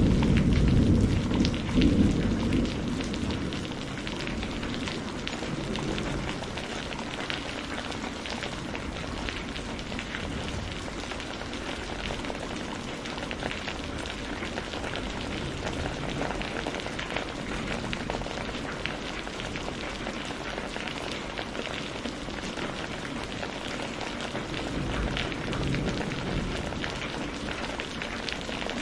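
Steady rain falling, a dense hiss with many individual drops pattering. A roll of thunder is dying away over the first few seconds.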